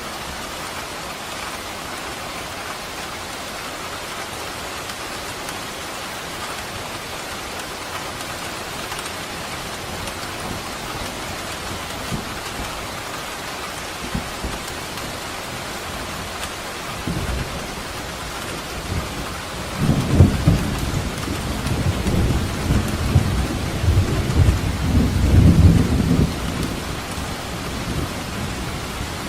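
Steady rain falling, with a low rumble of thunder that builds about two-thirds of the way in, rolls for several seconds with its loudest cracks near 20 and 25 seconds, then dies away under the rain.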